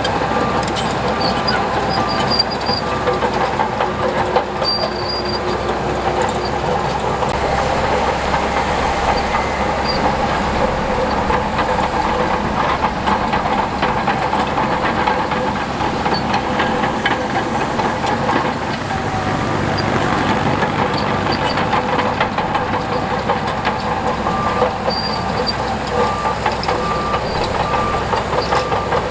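Heavy diesel earthmoving machinery, a crawler bulldozer, running steadily with its steel tracks clanking and rattling. A repeating beep sounds near the start and again near the end.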